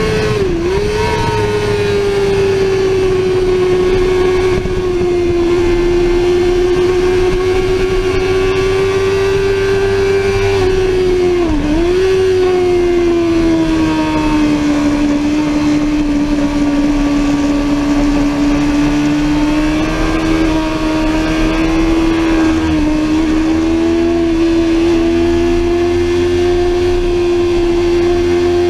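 Sportbike engine held at high revs. Its pitch sags briefly and climbs back about a second in and again around twelve seconds in, over a low rushing noise.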